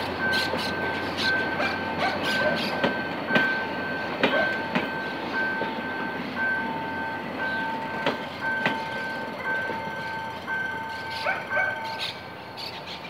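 Passenger coaches rolling past at arrival speed, the wheels clicking and knocking over the rail joints, the sound fading as the last coach passes. A steady pulsing two-tone beep runs alongside and stops about twelve seconds in.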